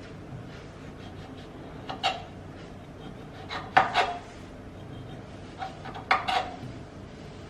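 Knife scraping and cutting as lime peel is pared off, in three short clusters of strokes about two seconds apart.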